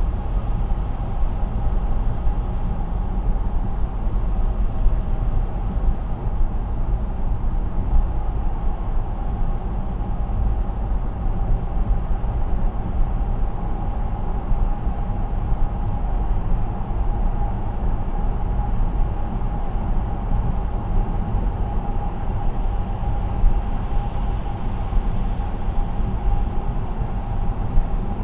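Car cruising at expressway speed: steady road and tyre noise with a low rumble and a faint steady hum.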